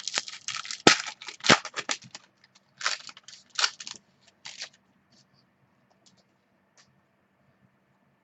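A Crown Royal football card pack's wrapper being torn open and the cards handled: a quick run of tearing and rustling for about four seconds, with two sharp knocks near the start, then only faint light ticks.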